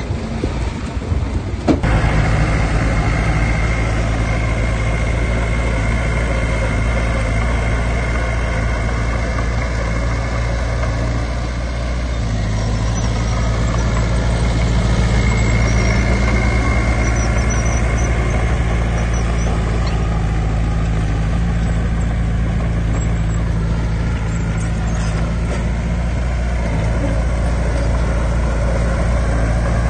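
Heavy diesel engine of earthmoving machinery running steadily, coming in suddenly about two seconds in, with its level easing and swelling slightly as the load changes.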